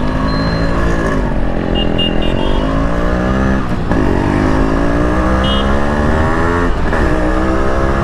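Yamaha RX100's two-stroke single-cylinder engine accelerating hard through the gears, its pitch climbing, dropping at two upshifts about 4 and 7 seconds in, then climbing again.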